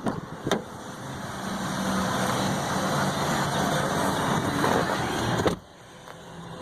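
A motor vehicle running: a broad engine-and-road noise with a low hum swells over a few seconds, then cuts off suddenly.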